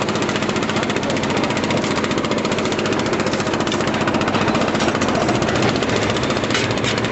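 Engine-driven construction machinery running steadily, with a fast, even knocking pulse.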